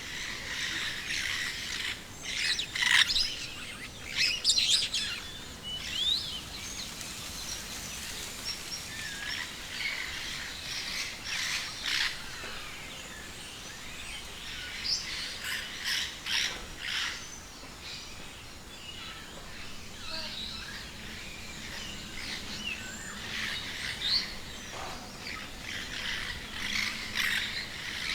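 Many birds chirping and calling, with short overlapping chirps and trills throughout and the loudest bursts around three and five seconds in.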